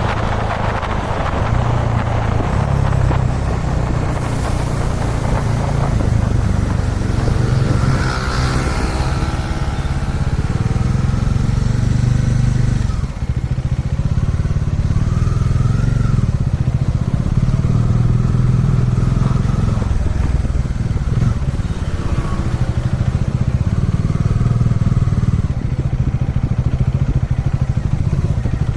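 Kawasaki Dominar 400 motorcycle's single-cylinder engine running steadily while riding, with wind rush. The engine sound dips briefly about halfway through.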